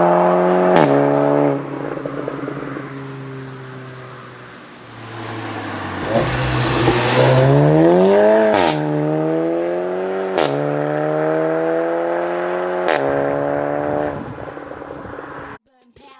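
Seat Leon Cupra 5F's 2.0 TSI turbo four-cylinder through a 3.5-inch stainless valved sport exhaust, driven under load. The revs fall away to a quieter lull about two to five seconds in, then climb hard. There are sharp cracks at the gear changes: once about a second in, then around nine, ten and thirteen seconds. The sound cuts off abruptly near the end.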